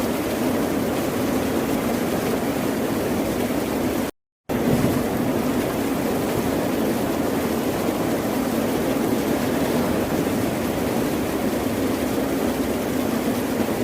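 Steady wash of ocean surf, a continuous rumble of waves, broken by a brief total silence about four seconds in before the waves resume.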